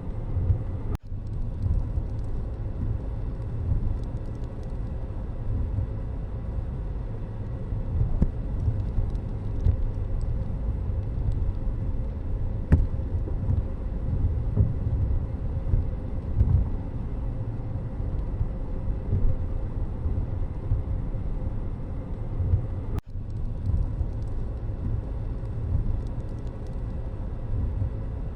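Steady low road-vehicle rumble with uneven fluttering, broken by two abrupt brief dropouts, about a second in and near the end.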